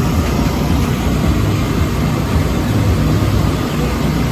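Loud, steady low rumble of background noise, engine-like, with no distinct events.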